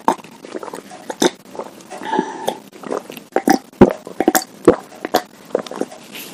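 Close-miked eating sounds: chewing meatballs with irregular sharp, wet mouth clicks and smacks, and a short throaty sound about two seconds in.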